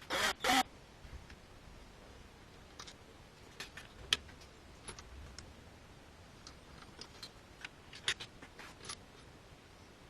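Two short whirs of a small electric power tool at the start, then scattered light metallic clicks and taps of tools and parts being handled on a motorcycle engine's crankcase.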